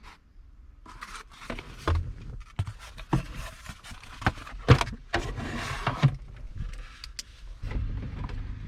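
Irregular clicks, knocks and scraping from hand tools and plastic trim being handled inside a truck's dashboard, busiest between about one and seven seconds in.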